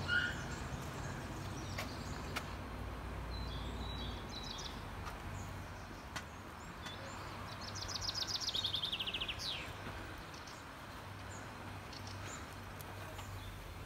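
A songbird singing two fast trilled phrases that run downward in pitch: a short one about three seconds in and a longer, louder one around eight to nine seconds. A steady low hum runs underneath throughout.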